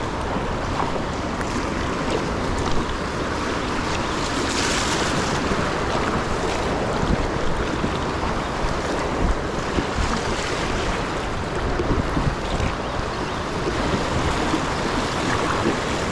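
Steady rush of flowing river current around the kayak, with wind buffeting the microphone.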